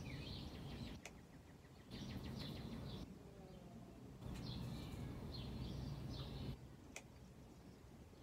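Small birds chirping in short bouts over a low outdoor background rumble, with a couple of faint sharp clicks.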